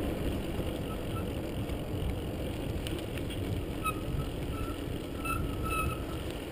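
Steady low rumble of wind and tyres while riding an electric mountain bike on a park trail. A few faint, short high chirps come in about four seconds in.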